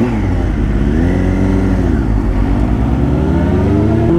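Yamaha R1 sport bike's inline-four engine under way. The revs rise, ease off about two seconds in, then climb steadily through the rest as the bike accelerates.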